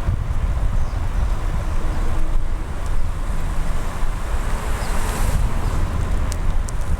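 Wind buffeting the microphone as a rider pedals a bicycle, a steady low rumble, with a brief swell of road noise about five seconds in and a few light clicks near the end.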